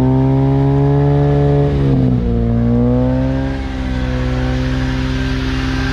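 Mazda RX-8's two-rotor Wankel rotary engine held at raised revs, around 4,000 RPM, to warm up its ports. The revs sag and recover about two seconds in, then ease off a little after about three and a half seconds and hold steady.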